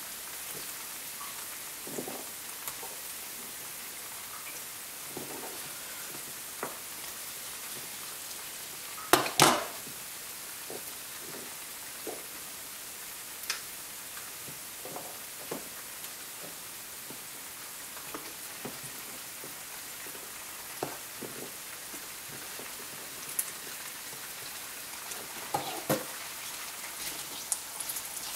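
Potato pieces shallow frying in hot oil in a pan: a steady sizzle with scattered small pops and spatters, the sign that the oil is hot enough. Sharper clicks and knocks come through, a loud pair about nine seconds in and several near the end as metal tongs work in the pan.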